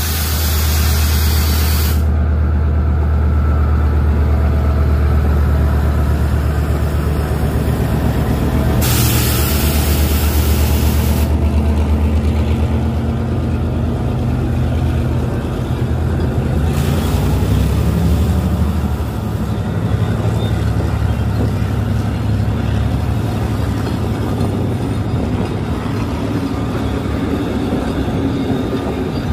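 Passing diesel locomotive with its engine running at a deep steady drone, then its passenger coaches rolling past on the rails. Three loud bursts of hissing air cut in, at the start, about nine seconds in and about seventeen seconds in.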